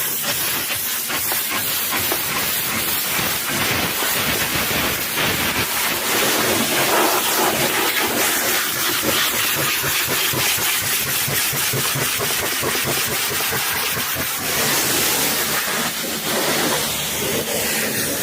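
High-pressure washer jet spraying water, a steady hiss.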